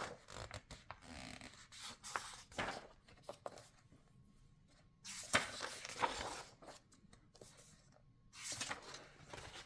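Paper pages of a coloring book being turned and handled: light rustles and small clicks, with two louder page-turn swishes about five seconds in and near the end.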